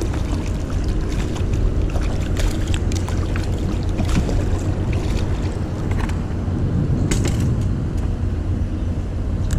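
Wind buffeting the microphone and water around a solo canoe, a steady low rumble, with scattered small clicks and knocks from the boat and gear; a denser patch of knocks comes about seven seconds in.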